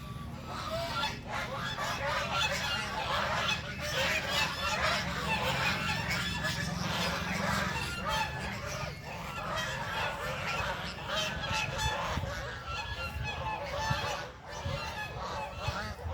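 A flock of birds gathered for feeding, calling continuously with many short, overlapping calls over a steady low rumble.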